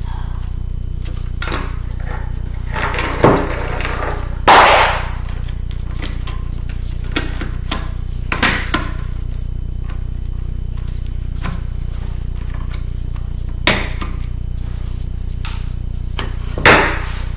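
Knocks, clicks and short clatters of hand tools and small parts as a laptop is taken apart, a handful of separate sharp hits, the loudest a half-second clatter near the start. A steady low hum runs beneath.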